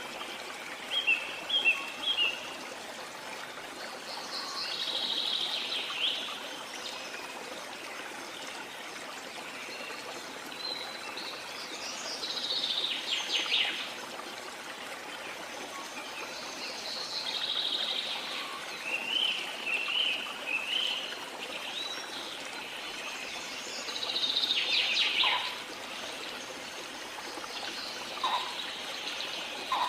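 Small birds chirping and singing in repeated short phrases over a steady rush of running water.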